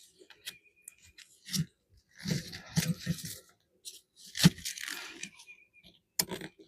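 Hands handling beekeeping gear: irregular rustling, scraping and knocking, with a sharp knock about four and a half seconds in.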